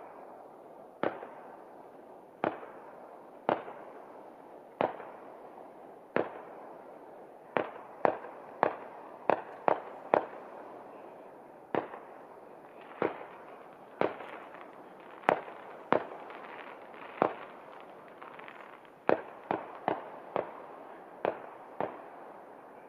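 Distant aerial firework shells bursting in a long series: about two dozen sharp bangs, mostly a second or so apart and coming faster in a couple of clusters, each trailing off, over a continuous rumble between them.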